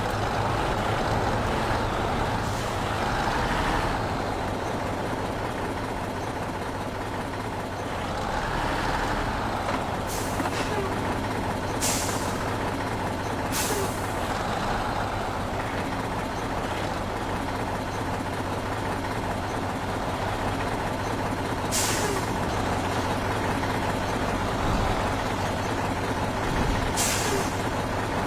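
Heavy truck engine running steadily, with several short, sharp hisses from its air brakes.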